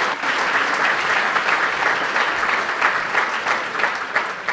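Audience applauding in a large hall: steady, dense clapping that thins out near the end.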